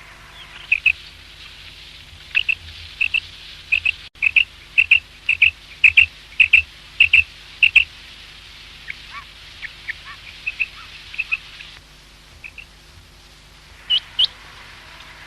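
Common quail calling: a run of short, sharp whistled notes in quick groups, loudest in the first half. Fainter notes follow, then a louder, higher pair near the end.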